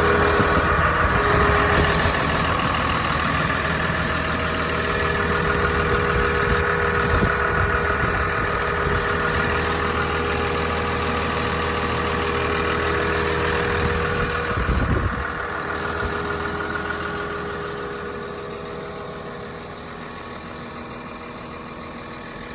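Caterpillar 938M wheel loader's diesel engine running steadily, with a brief low rumble about fifteen seconds in, after which the sound drops and fades gradually quieter.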